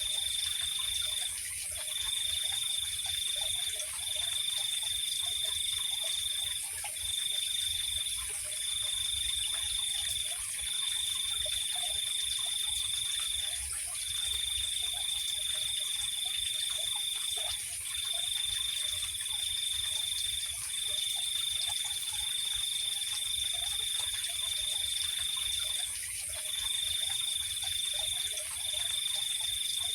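Night chorus of insects and frogs: a cricket trills at one steady high pitch in long runs broken by short pauses every one to three seconds, over a constant high hiss of other insects, with scattered short frog calls lower down.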